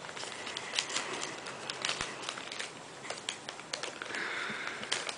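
A sheet of paper being folded and handled, giving many small crackles and crinkles, with a soft rustle about four seconds in.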